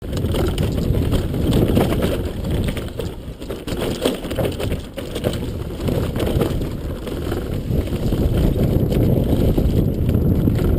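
Wind rushing over the microphone with frequent knocks and rattles from an electric motocross bicycle riding downhill over rough ground.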